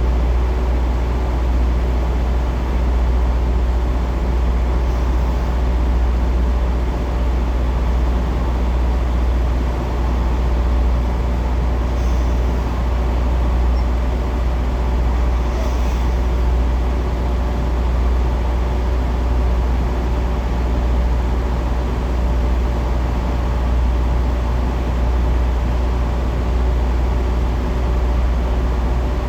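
Semi-truck diesel engine running steadily, a constant deep rumble with a few steady tones above it.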